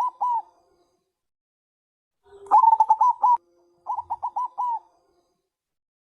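Zebra dove (perkutut bangkok) cooing: phrases of rapid staccato notes, one ending just at the start, a louder phrase about two and a half seconds in and another about four seconds in.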